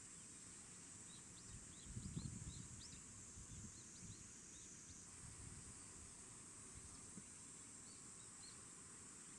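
Faint outdoor ambience: small birds giving a scattered run of short, high chirps through the first half and a few more near the end, over a steady high hiss, with a brief low rumble about two seconds in.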